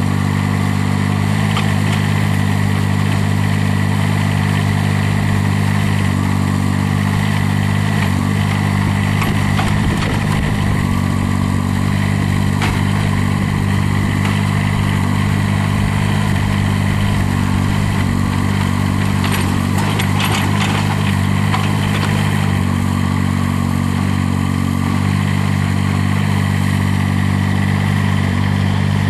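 Kubota three-cylinder turbocharged diesel of a Terramite T9 backhoe loader running at a steady speed, its pitch shifting slightly now and then as the machine works. A few sharp metallic knocks come about ten seconds in and again around twenty seconds in.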